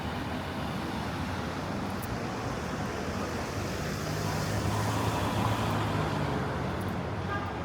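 City street traffic noise, with a motor vehicle passing close by; its engine hum grows loudest a little past the middle and then fades.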